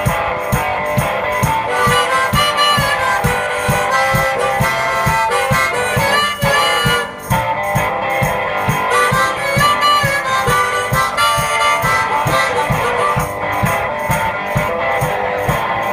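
One-man band playing an instrumental passage on harmonica and guitar, with a steady low beat thumping about two to three times a second.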